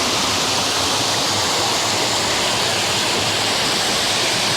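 Fast-flowing water rushing at a steady, unbroken level.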